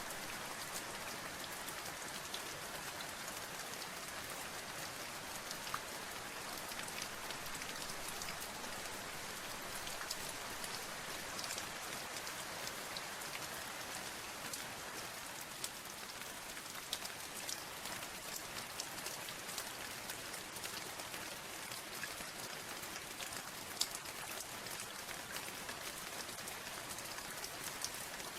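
Steady rain falling, with many individual drops ticking sharply on a surface through a constant hiss.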